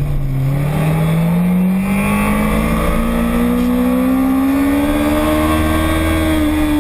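A racing motorcycle engine pulling hard, its pitch rising smoothly and steadily for several seconds, then easing off slightly near the end.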